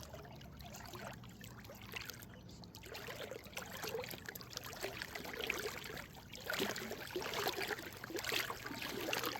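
Faint water lapping and trickling against a small boat's hull, a little louder in the second half.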